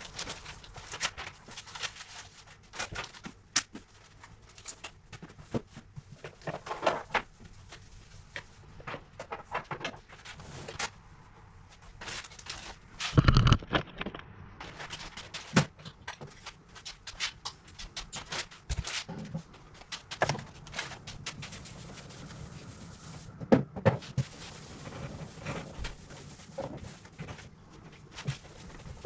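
Irregular knocks, clicks and clatters of household things being handled and moved during cleaning, with one louder thump about thirteen seconds in.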